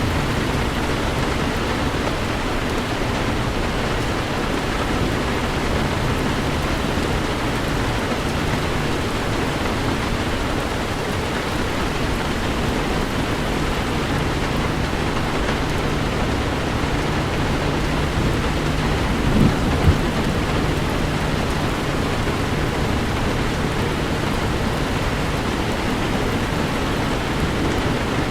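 Heavy rain beating steadily on a moving Toyota 4Runner, over a steady low hum from the engine and tyres. About two-thirds of the way in there are two brief thumps.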